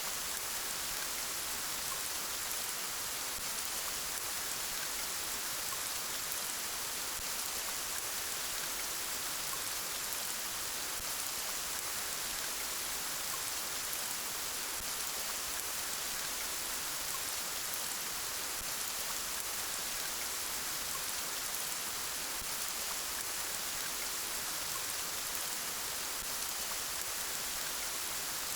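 Steady, gentle rain falling, an even hiss of drops on a surface with no thunder or other events.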